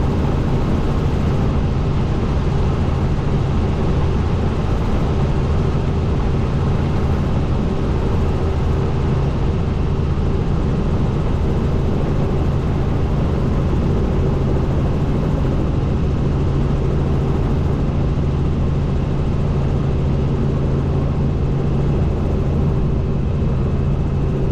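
Helicopter in flight, heard from on board: a loud, steady drone of its engine and rotor with a low hum and a faint steady higher tone.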